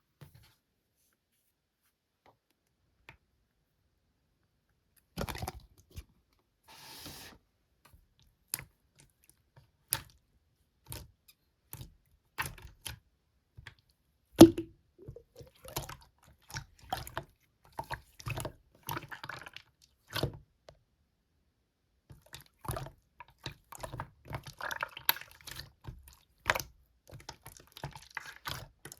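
Slime being pressed, poked and squeezed by hand: a busy string of sticky clicks, pops and squelches that starts about five seconds in, with a sharper pop near the middle.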